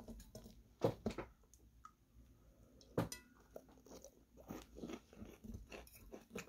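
Close-up crunching and chewing of a bite of breaded, fried chicken katsu, with sharp crunches about a second in and three seconds in, then softer chewing crackles.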